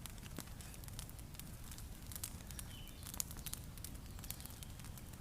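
Campfire crackling, with irregular small pops and snaps over a low steady rumble.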